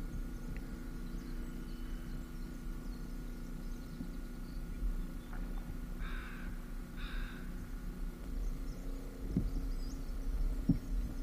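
A bird calls twice, about a second apart, over a steady low hum. Two short knocks follow near the end.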